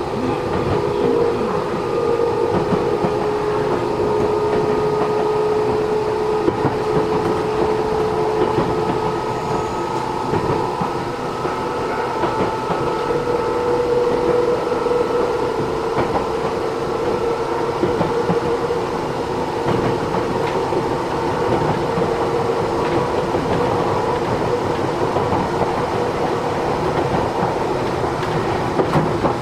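Matsumoto Electric Railway 3000 series electric train running, heard from inside the passenger car: steady running noise with a few held tones and the clack of wheels over rail joints.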